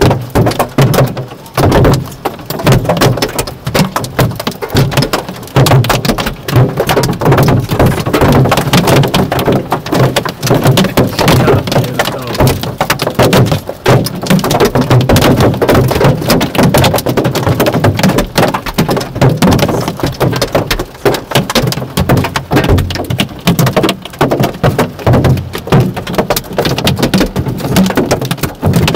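Heavy storm rain pelting the roof and windows of a car, heard from inside the cabin: a loud, dense, unbroken patter of drops striking metal and glass.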